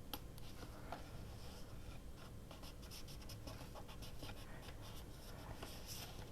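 Faint rustling, scratching and small taps of paper and a sticker being handled and pressed down on a work surface, with a sharper click just after the start and another about a second in.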